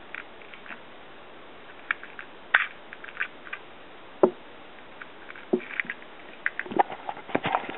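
Airsoft BBs being loaded into the plastic magazine of a Double Eagle M37 spring airsoft gun: scattered small clicks and rattles, growing busier near the end.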